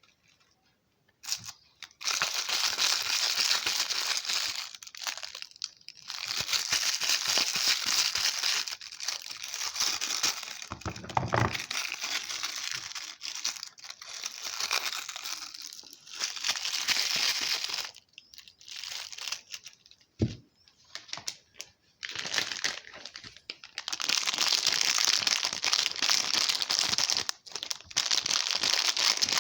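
Soap packaging crinkling and tearing as bars of soap are unwrapped by hand, in long stretches of rustling with short pauses, a dull thud near the middle and a single knock later on.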